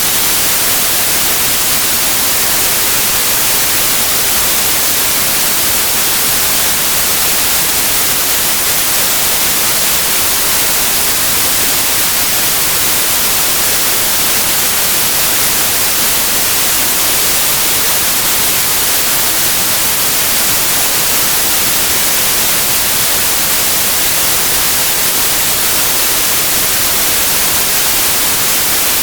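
Pure white noise: a steady, even hiss with no melody or rhythm, brightest in the high frequencies.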